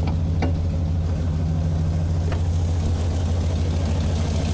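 A vehicle engine idling steadily with a low, even hum, and a few faint clicks over it.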